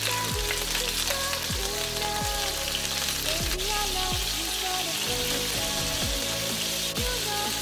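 Chicken pieces searing in hot vegetable oil in a pot: a steady sizzle. Background music with a steady beat plays under it.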